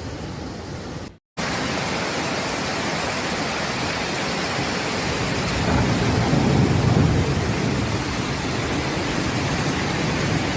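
Steady rushing noise of heavy water, from rain or floodwater, broken by a brief cut to silence about a second in; a low rumble swells louder around the middle.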